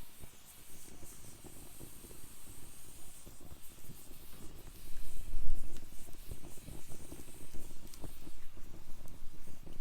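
Wood fire burning in a fire pit: a steady hiss with frequent small crackles and pops. About five seconds in comes a louder low rumble lasting a second or so.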